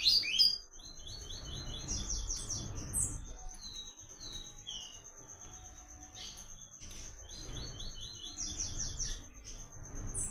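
Papa-capim seedeater singing in short bursts, each a quick run of repeated high notes: one at the start, one about two seconds in, a few scattered notes around four to five seconds, and another near the end. A steady high insect trill runs underneath.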